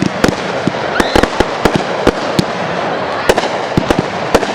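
Fireworks display: a rapid, irregular string of sharp bangs from bursting shells, about a dozen in a few seconds, over a constant crackle.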